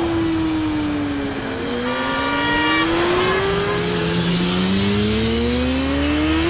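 Motorcycle engine revving through its gears, the pitch sinking, then climbing twice with a shift in between. A steady high tone sounds for just under a second about two seconds in.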